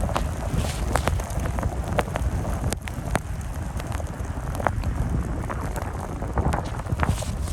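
Wind rumbling on the microphone, with many scattered sharp ticks over it.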